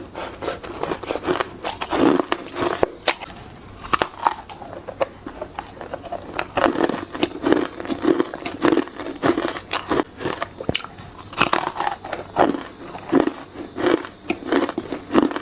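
Hard ice cubes being bitten and crunched between the teeth close to the microphone, a rapid run of sharp cracks and crunches, bite after bite.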